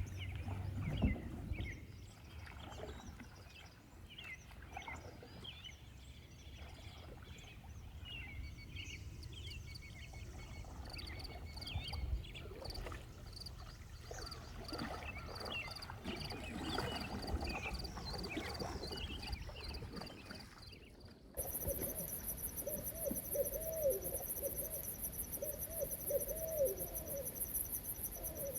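Outdoor nature sounds: birds chirping over a low rumble. About three-quarters of the way through, the sound changes abruptly to a fast, steady, high-pitched insect trill with a run of low hooting calls.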